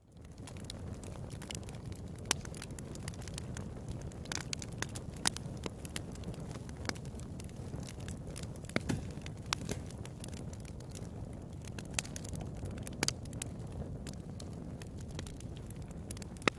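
Wood fire burning in a fireplace: irregular sharp crackles and pops over a steady low noise of the flames.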